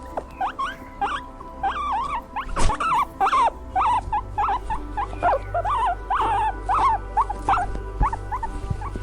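Rapid, overlapping high squeaks and yelps from small animals, over a steady background music bed.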